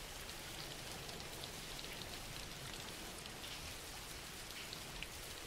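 Recorded rain falling steadily and quietly, an even hiss with scattered drops ticking through it.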